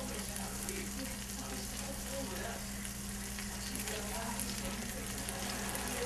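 Food frying in a pan: a steady sizzle with fine crackles, over a constant low hum.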